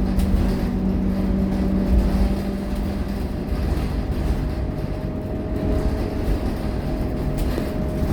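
Scania K230UB single-deck diesel bus running on the road: a continuous low rumble with a steady engine drone that fades about three seconds in, then a higher whine slowly rising in pitch as it pulls.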